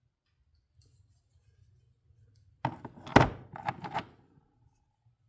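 Rock pieces knocking and clattering as they are handled and set down on a hard surface: a quick cluster of knocks starting about two and a half seconds in, the loudest about three seconds in, dying away about four seconds in.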